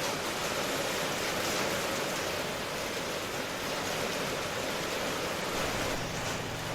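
Steady rainfall, an even hiss without distinct drops.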